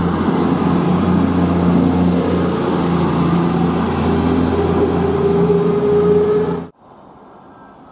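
Steady mechanical running noise, a low hum with a high thin whine over it, that cuts off suddenly near the end, leaving a faint hiss.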